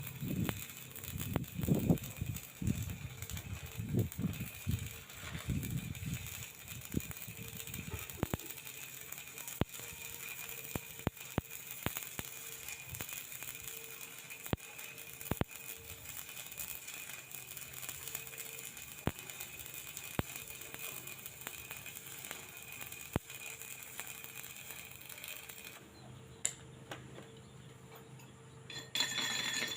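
Stick (shielded metal arc) welding arc crackling and sizzling steadily with frequent sharp pops, the arc breaking off about 26 seconds in. A few low thumps come in the first several seconds, and quick metallic clicking starts near the end.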